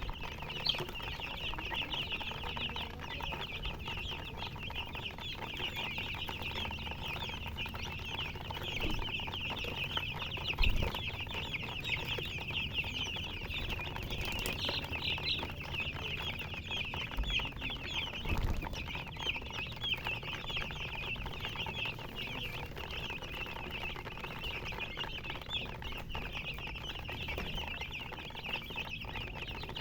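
A group of baby chicks peeping nonstop, a dense chorus of short high-pitched chirps overlapping one another. A couple of dull low knocks come through, one about ten seconds in and another a little past eighteen seconds.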